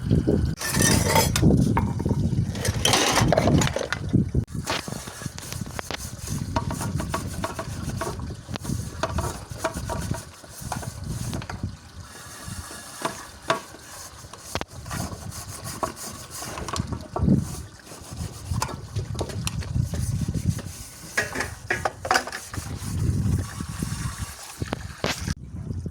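Dishes being washed by hand: a loud rush of water for the first few seconds, then quieter splashing and rubbing with scattered clinks and knocks of dishes and utensils.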